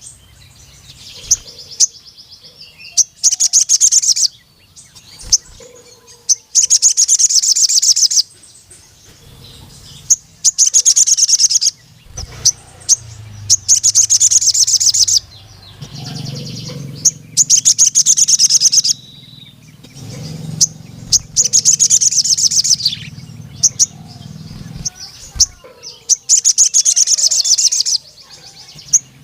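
Ruby-cheeked sunbird (sogon) singing: loud bursts of rapid, high-pitched repeated notes, each about two seconds long, come every two to three seconds, with short 'cuit' chirps between them.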